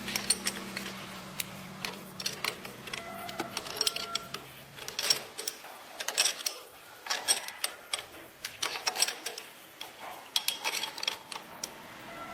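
Workshop tool clatter: irregular sharp clicks and light metallic clinks, a few of them ringing briefly. A low hum fades out in the first few seconds.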